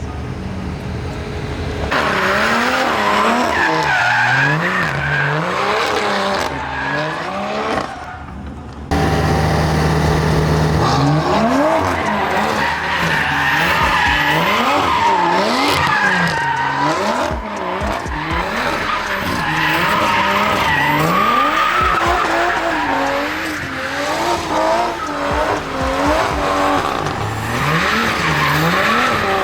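A car drifting: its engine revs rise and fall over and over as the throttle is worked, while the tires squeal and skid across the pavement. There is a short lull around eight seconds in, then it starts again abruptly.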